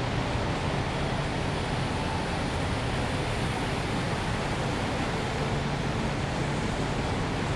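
Steady urban ambience: a continuous low rumble of city traffic and general hum, with no distinct events standing out.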